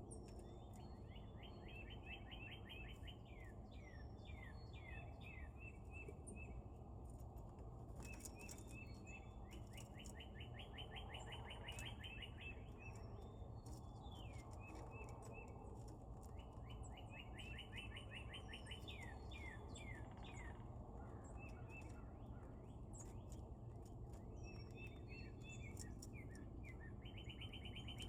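A songbird singing the same phrase over and over, about every eight seconds: a few short notes, a fast trill, then several falling slurred notes. A steady low outdoor rumble runs underneath.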